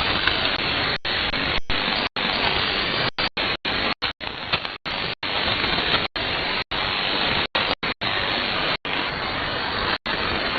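Shortwave receiver static heard through a WebSDR: a steady loud hiss with no station audible. It is broken by many short, irregular silent dropouts.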